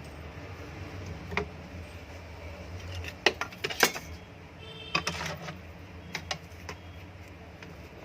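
A low steady electrical hum, with irregular clicks and light metallic clatter from the exhaust fan and its parts being handled.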